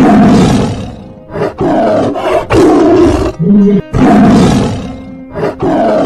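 A large animal roaring: a series of loud, rough roars in about five bursts that start suddenly, over background music.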